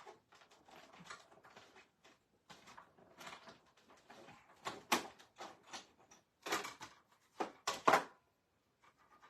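Card stock and an embossing folder being handled and embossed: irregular rustling and scraping, loudest about five seconds in and again near the end.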